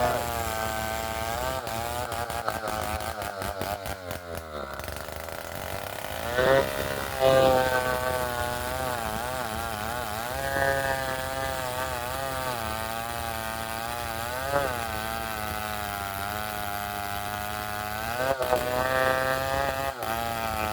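Old two-stroke chainsaw running under load while cutting a coconut palm trunk, its pitch wavering up and down, dropping briefly about four seconds in and then revving up sharply a couple of seconds later.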